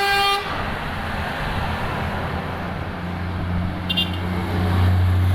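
A truck horn blaring a steady note that cuts off about half a second in, followed by the rumble of convoy trucks driving past, with a low diesel engine drone growing louder from the middle on.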